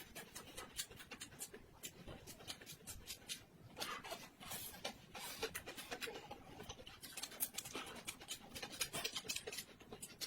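Someone eating close to the microphone: many small, irregular chewing and lip-smacking clicks.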